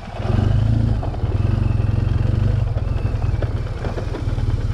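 BMW R 1200 GS boxer-twin engine with an SC Project exhaust running at steady low revs, with some light clattering over rough ground.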